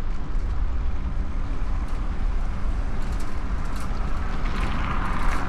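Steady low rumble of wind on the microphone mixed with road and traffic noise, heard from a moving bicycle, with a few faint ticks about three to five seconds in.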